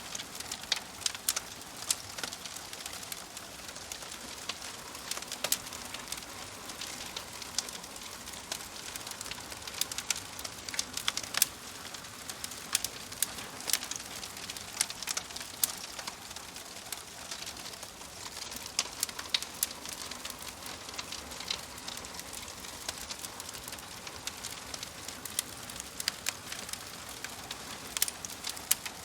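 Wood fire crackling: a steady soft hiss with frequent irregular pops and snaps, some of them sharper and louder than the rest.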